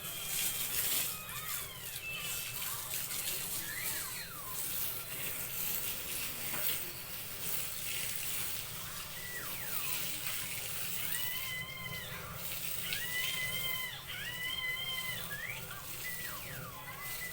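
Animal calls: several drawn-out, pitched cries in the second half, each rising, holding and falling, over a steady noisy background with scattered clatter.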